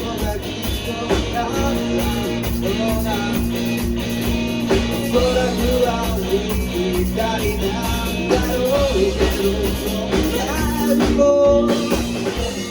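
Rock song playing, with a sung melody over guitar, bass and drums.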